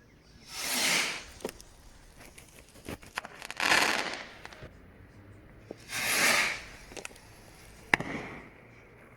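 Fireworks going off: three rushing bursts of about a second each, a few seconds apart, with sharp cracks between them and one louder crack near the end.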